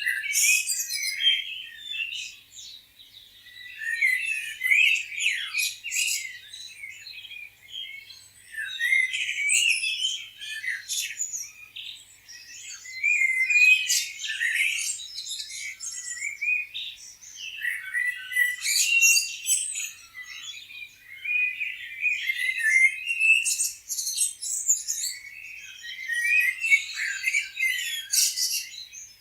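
Songbirds chirping and singing in overlapping bouts of quick, high chirps and trills a few seconds long, with short lulls between.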